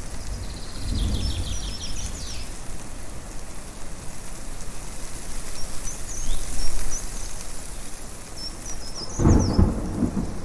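Thunder rumbling over a steady rushing background of wind and rain: a low rumble about a second in, then a louder, fuller rumble near the end. Birds chirp in short, high bursts at several points.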